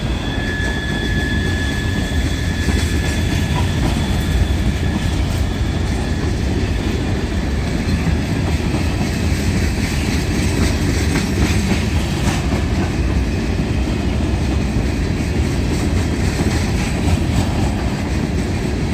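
Empty covered hopper cars of a freight train rolling past close by: a steady rumble with the clickety-clack of wheels over rail joints. A thin high wheel squeal fades out over the first few seconds.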